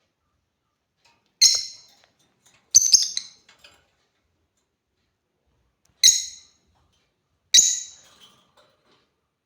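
Lovebird giving short, shrill calls: five sharp calls, two in quick succession about three seconds in, separated by brief silences.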